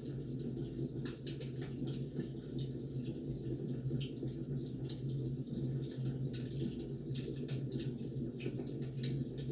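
Firewood burning, crackling with irregular pops and snaps over a steady low rumble.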